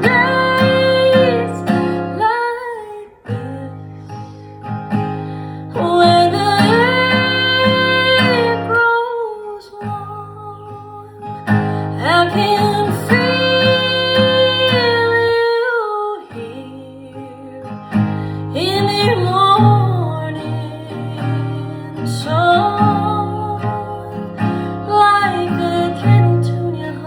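A woman singing long held notes over a strummed acoustic guitar, in phrases several seconds long with short breaks between them.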